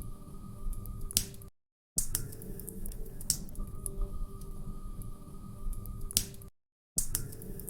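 Wood fire crackling in a fireplace, with irregular sharp pops over a low rumble of burning logs. The sound cuts out completely twice, for about half a second each.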